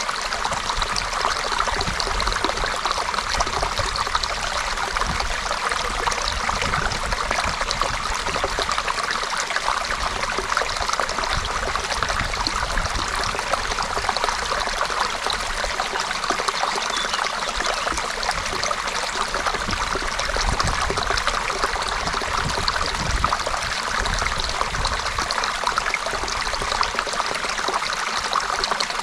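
Shallow creek water running and trickling steadily over stones, a continuous even splashing rush.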